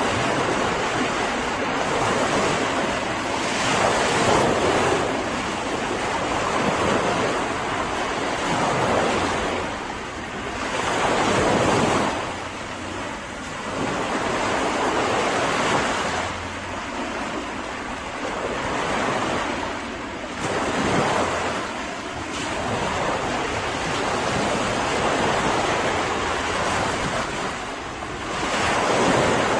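Mediterranean surf: waves breaking and washing up the beach, swelling and falling back every few seconds, with some wind on the microphone.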